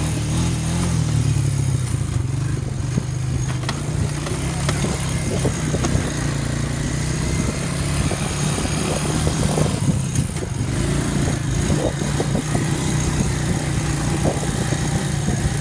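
Quad bike engine running steadily, with no clear rise or fall in revs.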